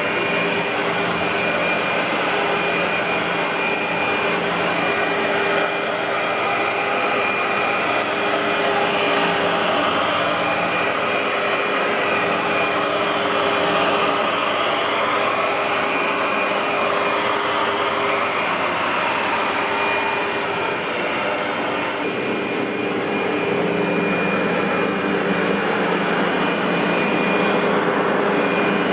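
SEBO-built Century 400 U-Vac commercial upright vacuum cleaner running steadily, its motor giving an even whine.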